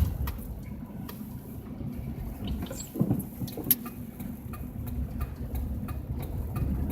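Car driving slowly on a snow-covered highway, heard from inside the cabin: a steady low engine and road rumble with scattered sharp clicks and ticks, and a brief louder knock about three seconds in.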